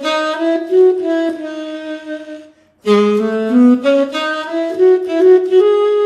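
VHorns sampled tenor saxophone played from an EWI USB wind controller, a single melodic line. Two short phrases, each climbing in pitch, are split by a brief pause a little under halfway through.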